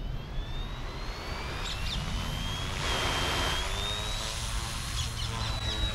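Electric OMPHobby M2 Evo RC helicopter spooling up: its motor and rotor whine rises in pitch over the first couple of seconds, then holds steady at flying speed. Wind rumbles on the microphone underneath.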